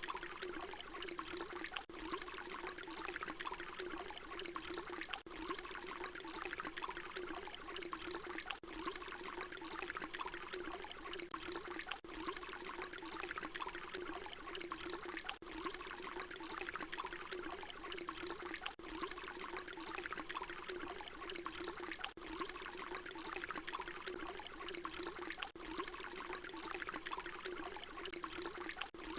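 Water pouring in a steady stream. It is a short recording looped, with a brief dip in level about every three and a half seconds where the loop repeats.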